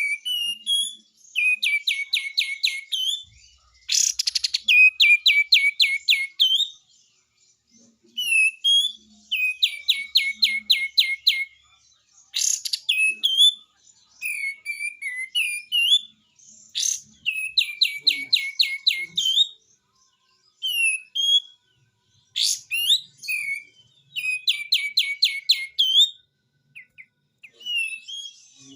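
A kapas tembak bird singing its 'besetan' song: repeated runs of rapid, evenly spaced chattering notes, each run lasting a second or two, broken by short pauses and single sharp calls.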